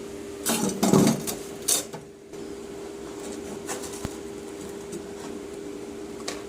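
Steady machine hum, with a few short clattering, rustling noises in the first two seconds.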